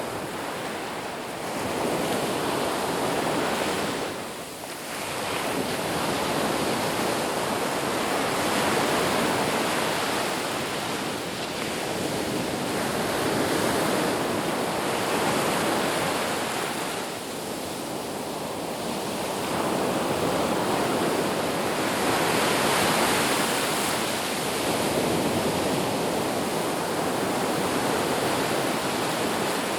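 Ocean surf on a beach: a continuous rush of waves breaking and washing in, swelling and easing every few seconds, with a brief lull about four seconds in.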